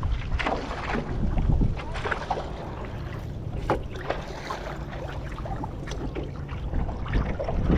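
Strong wind buffeting the microphone, with water slapping and splashing irregularly around a stand-up paddleboard on a choppy sea.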